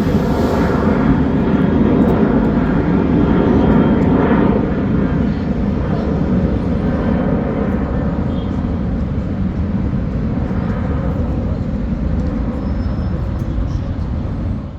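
Propeller aircraft engine running steadily with a loud low drone, strongest for the first few seconds and then easing slightly.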